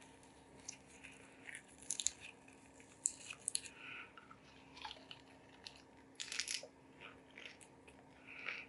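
Faint eating sounds: irregular crunchy bites and small clicks, coming in short clusters.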